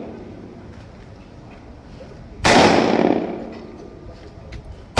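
A single loud bang about two and a half seconds in, ringing off over a second or so; another bang starts at the very end.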